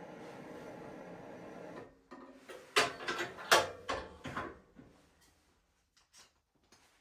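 A steady hum that cuts off about two seconds in, then a quick run of clattering knocks, then quiet.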